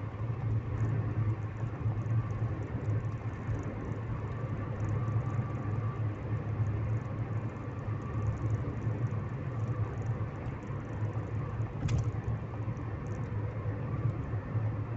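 Steady low rumble of a car's engine and road noise heard from inside the cabin while driving, with a faint click near the end.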